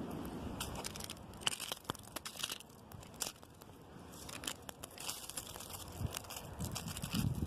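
Strong wind in tree branches, with a dense rustling and crackling of twigs and leaves; low gusts of wind buffet the microphone at the start and again near the end.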